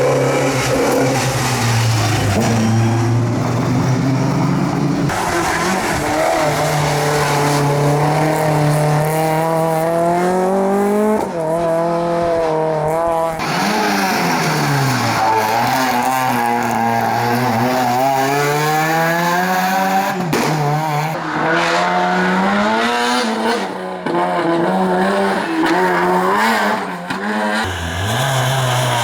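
Historic rally car engines at full effort, revving up and dropping back through gear changes, repeatedly. The sound jumps abruptly several times, about every few seconds, as it switches from one car to another.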